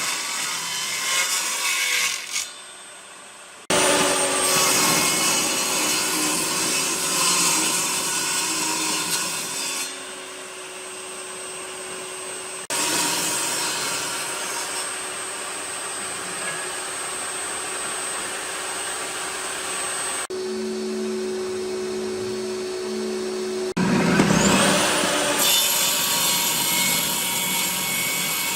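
Wood being sawn and rubbed in a run of short cut-together clips. A power tool's motor hums steadily in some of them. About three quarters of the way through, a sharp rising whine sounds.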